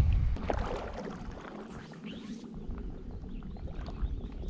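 Water splashing, loudest at the start and dying away over the first second into small, irregular splashes and drips.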